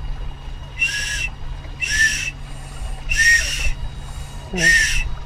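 A child's toy whistle blown four times in short, high-pitched blasts, each about half a second long, every second or so.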